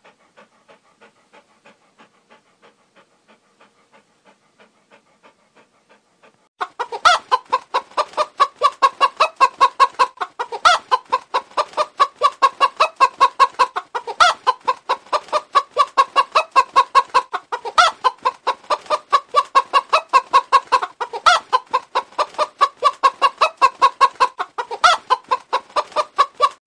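A dog panting softly in a quick, even rhythm. About six and a half seconds in, a hen starts clucking loudly and rapidly, a steady run of clucks with a sharper, louder one every few seconds.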